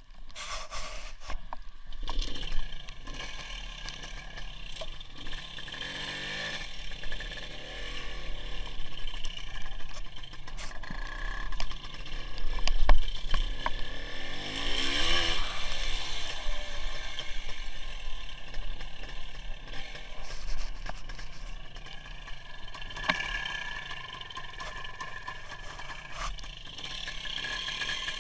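WSK 175's two-stroke single-cylinder engine running while the motorcycle is ridden, its pitch rising and falling with the throttle around the middle, under steady wind and road noise on the onboard camera.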